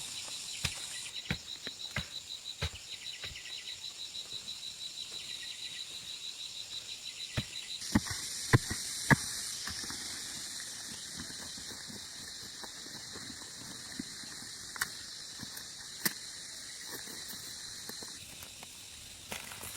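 Insects trilling steadily in a high, fast pulsing drone, with scattered sharp clicks and snaps; a few louder knocks come about eight to nine seconds in.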